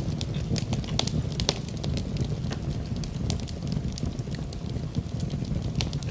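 Wood fire crackling in a fireplace: irregular sharp pops and snaps over a steady low rumble of burning, with rain falling.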